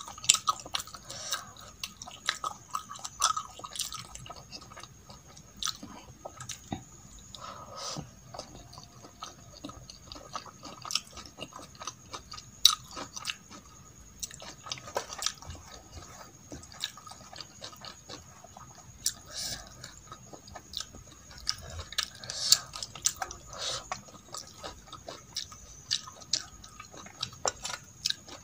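Close-up wet chewing of soft rice and masoor dal, with irregular lip smacks and mouth clicks throughout.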